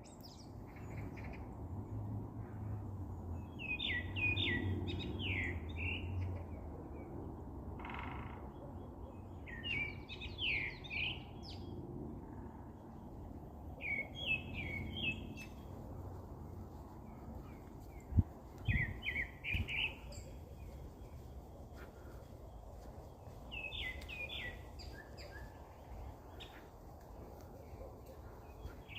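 A songbird repeating a short phrase of quick chirping notes about every five seconds, over a low background rumble, with a brief low thump about 18 seconds in.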